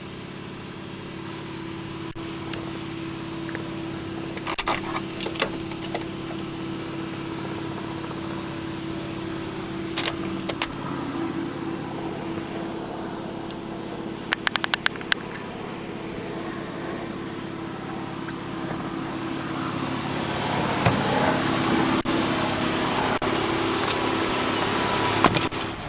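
A steady mechanical hum, like a fan, with a few scattered clicks and some handling noise that gets louder near the end.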